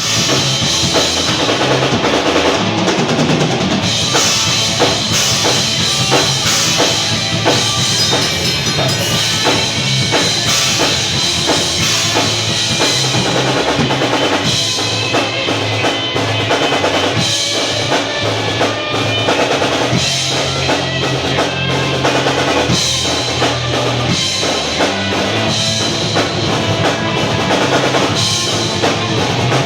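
Metal band playing loudly, led by a busy drum kit with bass drum and snare.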